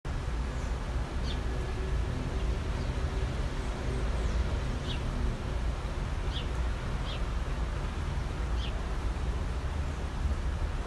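A bird giving short, high, downward-slurred chirps, about five of them spread irregularly, over a steady low rumble.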